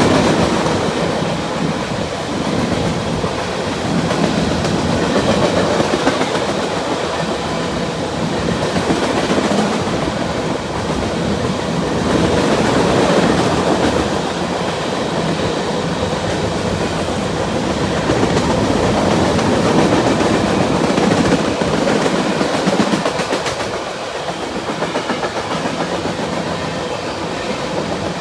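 Norfolk Southern freight train rolling past, a continuous rumble of steel wheels on rail that swells and eases a little.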